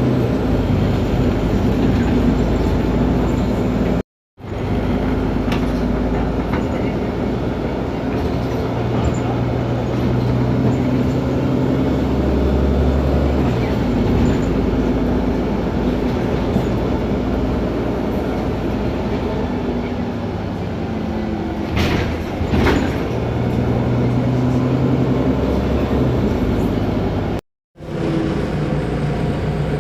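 Otokar Kent LF city bus on the move: its Ford Ecotorq diesel engine and Voith DIWA automatic gearbox running steadily, the low engine note shifting up and down several times. Two short sharp noises come a little over two-thirds through, and the sound cuts out abruptly twice.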